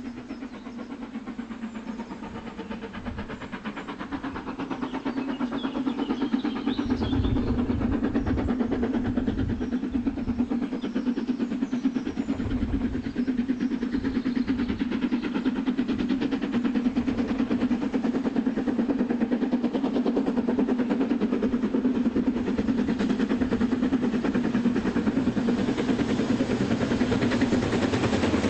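LMS Princess Coronation Class steam locomotive Duchess of Sutherland working a train, growing louder over the first several seconds as it approaches, then running steadily with a constant low drone.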